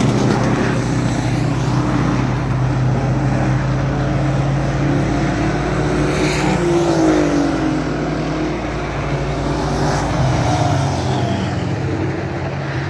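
Race trucks' engines running at speed around an oval track, a steady mix of several engines. About six seconds in, one passes close and its pitch falls as it goes by.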